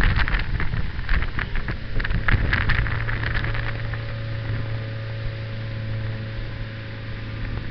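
Motorboat engine running with a steady low hum, with wind noise on the microphone over the first few seconds that eases off.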